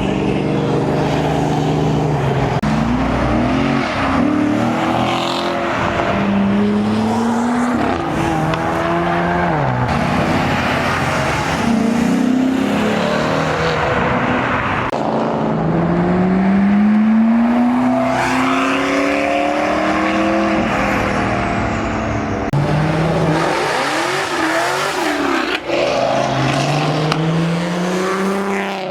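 Sports and exotic cars accelerating hard past one after another, each engine note climbing in pitch, dropping at a shift and climbing again.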